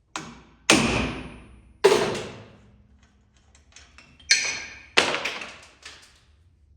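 Hammer striking the nut-capped end of a rusted-in hydraulic cylinder mounting bolt on a laser screed to drive it out: about five sharp metal blows, each ringing briefly, in two pairs after a lighter first tap.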